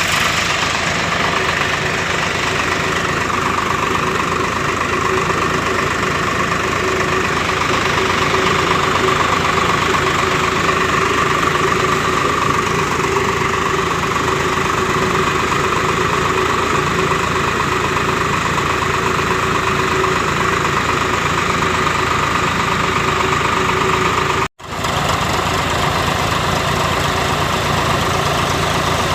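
Tractor engine running steadily while it drives a chaff cutter machine, a continuous mechanical drone with a fast even beat. It cuts out for an instant once near the end.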